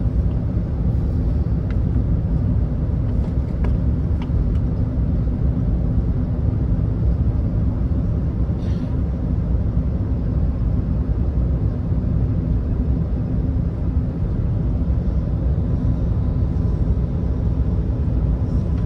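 Steady cabin rumble inside an Airbus A380 in flight: engine and airflow noise, deep and even, with a faint steady hum.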